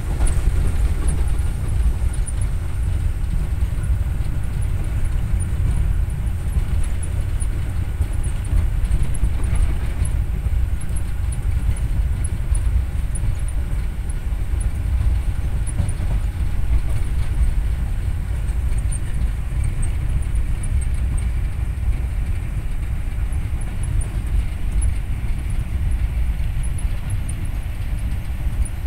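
Steady low rumble of a train running, heard from inside a passenger sleeper coach, with faint light ticking above it.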